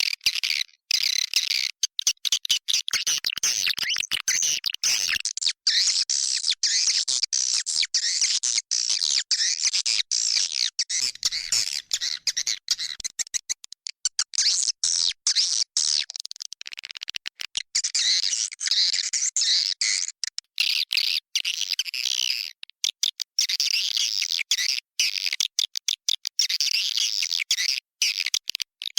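Recorded edible-nest swiftlet calls: a dense, high twittering chatter of many birds, chopped by many brief gaps. It is an 'inap' roosting-call lure track of the kind played to draw swiftlets into a swiftlet house.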